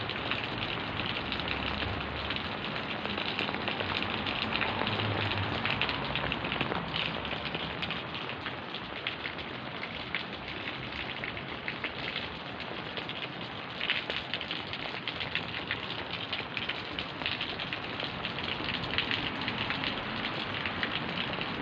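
Steady rain falling, with many individual drop hits close by.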